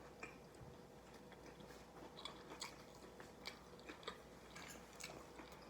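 Faint chewing close to the microphone, with scattered small wet mouth clicks.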